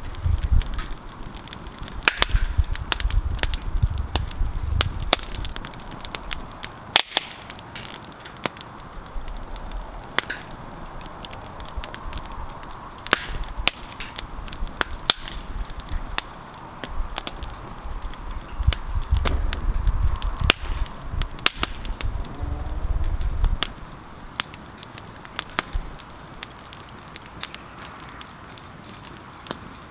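Wood campfire crackling, with frequent sharp pops and snaps. A low rumble comes in under it at the start and again about twenty seconds in.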